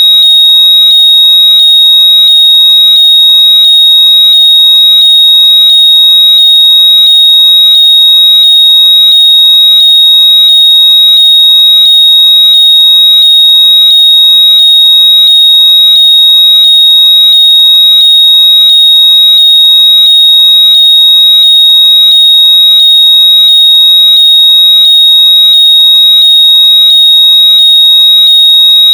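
Loud, steady, high-pitched electronic tone with a regular pulse, played to make lost earbuds or headphones sound out so they can be found by ear.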